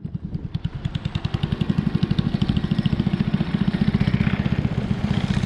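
A boat's motor running with a fast, even throb, building up louder over the first couple of seconds and then holding steady.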